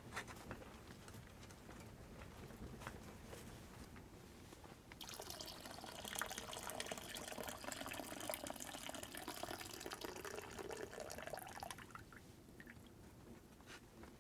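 Liquid poured into a container for about seven seconds, the pitch rising steadily as the vessel fills, then stopping. A few faint ticks before and after.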